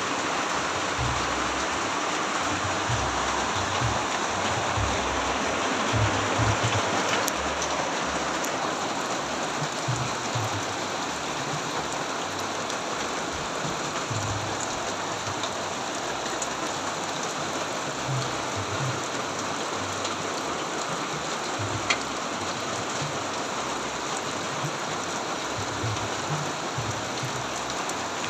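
Steady rain falling, an even hiss of drops on surfaces, with irregular low rumbling thumps underneath and one sharp tick about 22 seconds in.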